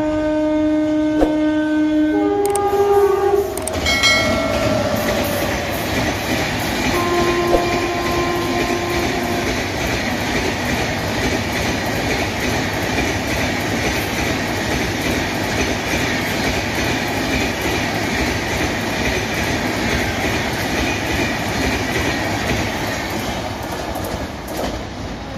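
Express passenger train passing at speed. The locomotive horn sounds a long blast for the first three seconds or so, a short one about four seconds in, and another from about seven to nine seconds. The rush and rail clatter of the coaches then goes on until it fades near the end.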